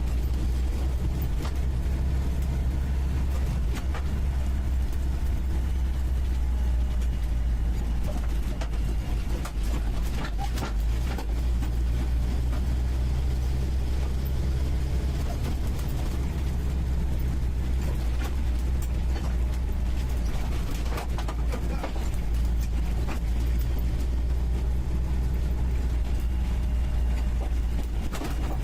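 UAZ 469B's engine running at a steady low drone while driving, heard from inside the cabin, with frequent knocks and rattles from the body over rough ground.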